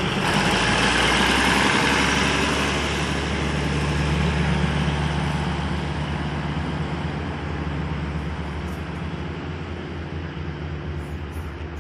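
Diesel railcar passenger train pulling out along the platform: wheel-on-rail noise over the steady hum of its diesel engine. It is loudest in the first few seconds and slowly fades as the train moves away.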